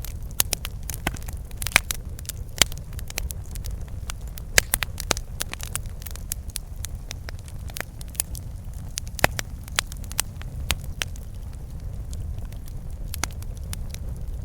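Campfire burning: wood crackling and popping in irregular sharp snaps, busier in the first half, over a steady low rumble of the flames.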